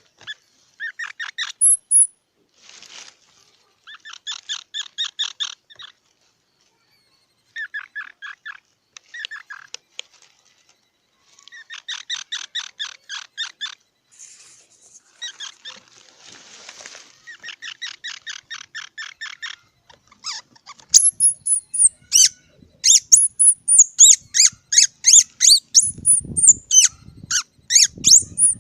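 Squirrel calling: several bursts of rapid chattering chirps, each a second or two long, with short gaps between. About two-thirds of the way in, this gives way to louder, high-pitched squeaks in quick succession, many falling in pitch.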